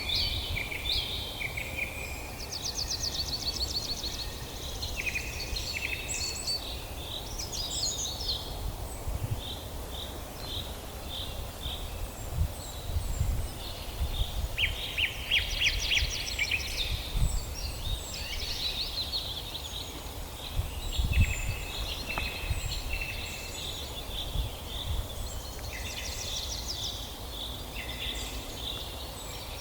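Several wild birds singing and calling together in a dawn forest chorus: overlapping chirps, fast trills and short whistles, over a low rumble that swells a few times.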